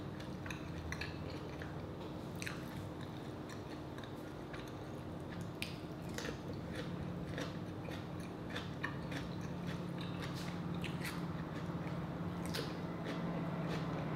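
Close-up mouth sounds of someone biting and chewing crisp radish, with irregular crunches and crackles, over a steady low hum.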